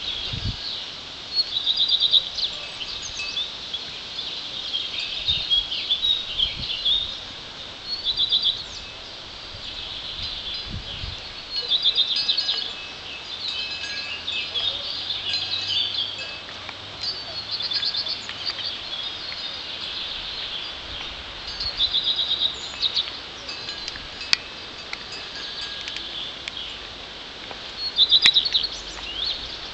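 Small songbirds singing: short, high chirping trills repeated every couple of seconds, the loudest about two seconds in, around twelve seconds in and near the end.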